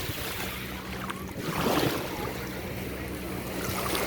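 Sea waves washing and splashing, swelling louder about a second and a half in, over a steady low hum.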